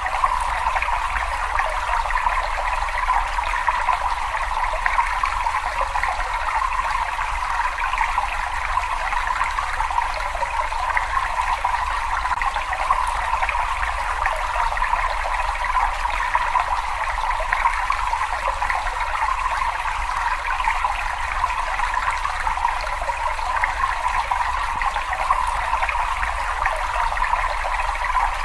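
Water running steadily in a cave: a constant, even wash of flowing water with a low rumble underneath, unchanging throughout.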